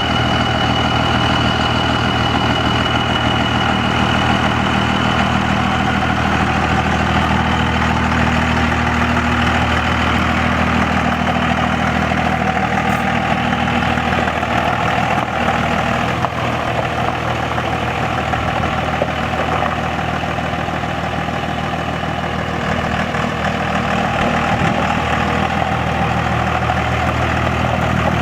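Cummins turbo-diesel engine of a 2002 Dodge 3500 dually truck idling steadily, with no revving.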